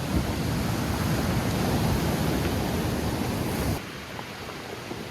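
Steady rush of ocean surf with wind buffeting the microphone, heavy in the low end; it drops suddenly to a quieter surf hiss near the end.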